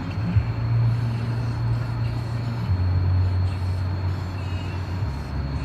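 A motor vehicle running with a steady low drone, which drops in pitch twice.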